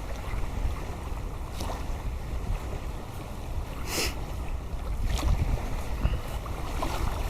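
Wind buffeting the microphone with a low rumble over a steady hiss of wind and river water lapping at the shore, with a short hiss about four seconds in.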